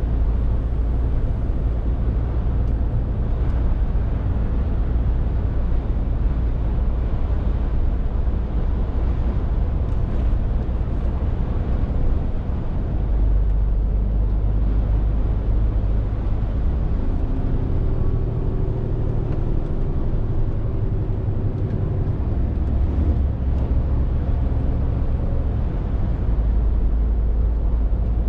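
Scania R450 lorry's six-cylinder diesel engine running under way, a steady low drone with road and tyre noise, the engine note shifting a few times as the load or gear changes.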